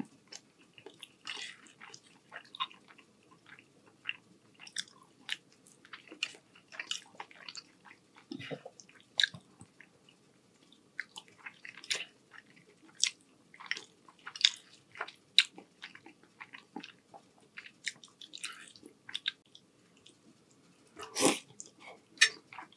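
Close-miked chewing of soft rotini pasta in meat sauce: irregular wet mouth smacks and clicks, a few each second, with one louder noise near the end.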